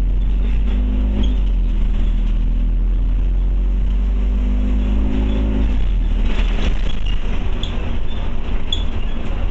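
Scania OmniCity bus heard from on board: a steady low engine rumble with a pitched drivetrain whine that rises and then cuts off about six seconds in. After that come rattles and clicks over the rumble.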